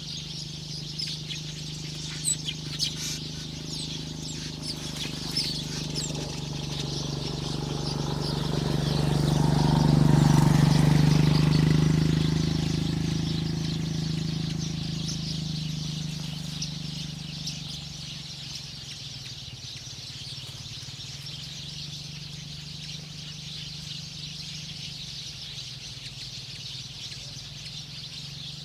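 Small birds chirping in quick, repeated short notes outdoors, over a low steady hum that swells to its loudest about ten seconds in and fades away by about eighteen seconds.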